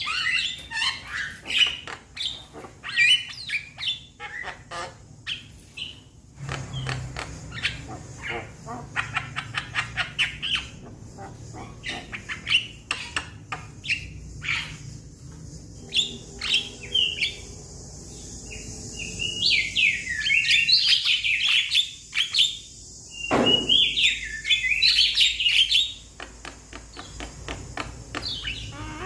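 Young Javan myna calling to its flock: a long run of quick clicks and short chattering notes, then a loud spell of harsh, warbling squawks about two-thirds of the way through.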